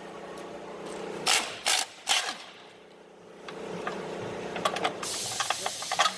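Workshop work on an engine being removed: a few sharp metallic knocks and clinks about a second in, then a hiss for about a second near the end, over a steady hum.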